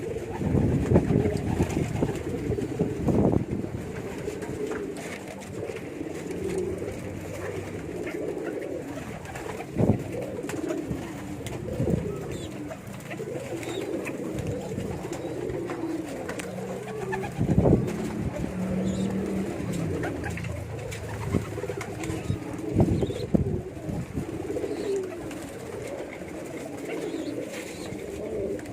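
Domestic pigeons cooing over and over, several calls overlapping, with a few short thumps in between.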